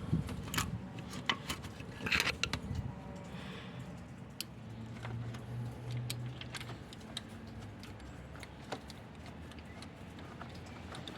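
Metal tools and engine parts clinking and tapping while being handled, with scattered sharp clicks, a busier cluster about two seconds in, and a low steady hum for about two seconds near the middle.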